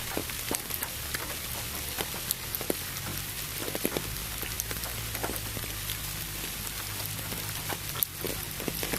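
Steady rain, many separate drops pattering over an even hiss of pink noise, with a low steady hum underneath.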